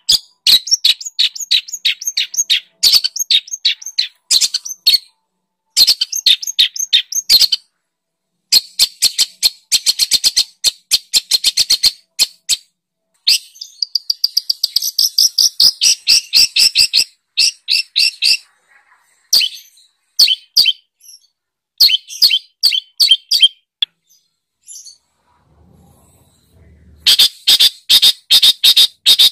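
Songbird song: fast runs of sharp, high chirps and trills in phrases of a few seconds with short gaps between them. It is 'masteran' material, song played to teach a caged long-tailed shrike (cendet).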